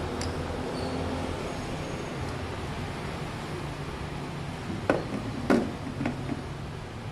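Tools and parts being handled: four or five sharp clinks and knocks in quick succession about five seconds in, over a steady low background hum.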